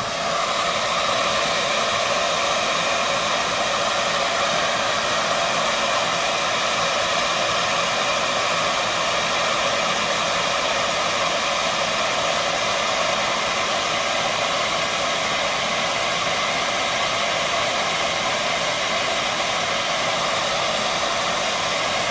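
Handheld hair dryer running steadily on high, blowing hot air into a switching power supply to heat the coil and thermal switch that trigger its cooling fan.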